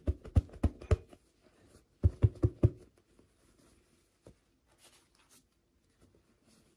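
Hard plastic toy pieces being handled on a tabletop: two quick runs of four or five sharp taps and knocks, the second about two seconds in, then a few faint ticks.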